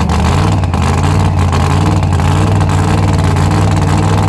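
A loud engine running at a steady speed, its pitch rising slightly about one and a half seconds in.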